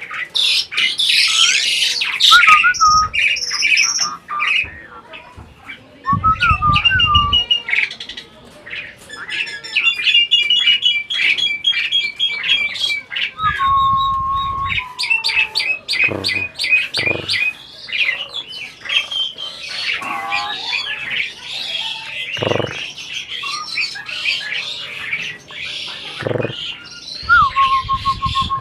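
Asian pied myna (jalak suren) calling continuously in a long, varied run of whistles, chirps and harsh squawks, with some clear held whistles. A few short low rumbles come in between.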